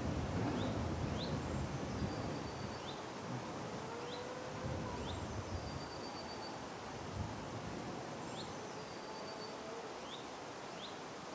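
Birds chirping outdoors: short rising chirps repeated every second or so, with a few thin high whistles among them, over a steady rushing background noise.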